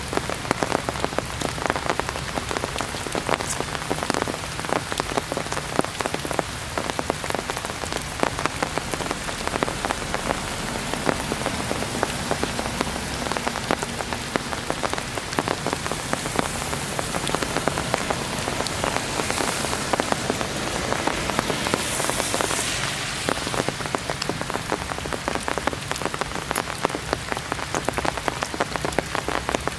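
Heavy rain falling steadily, a dense hiss of many close drop impacts.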